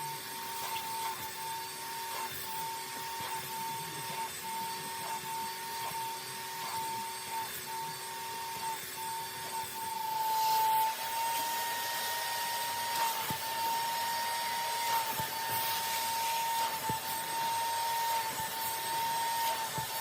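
A vacuum motor running steadily with a high whine over a rushing hiss, getting louder about halfway through.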